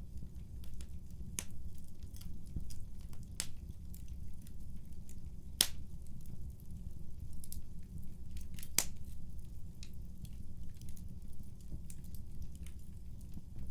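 Fireplace fire crackling: a steady low rumble of burning with scattered sharp pops and snaps, the loudest pop about five and a half seconds in and another near nine seconds.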